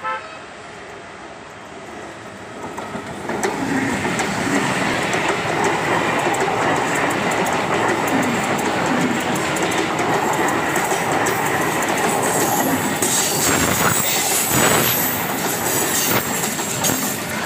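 Electric suburban train (EMU) approaching and passing close by at speed. Its rumble builds over the first few seconds into steady wheel-on-rail noise with rhythmic clickety-clack over the rail joints, and a high wheel squeal comes in a little past the middle.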